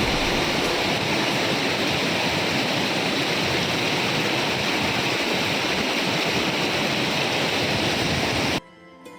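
Close, steady roar of a tall waterfall, the Nuranang (Jung) Falls plunging about 100 m onto rocks. It cuts off suddenly near the end and faint music takes over.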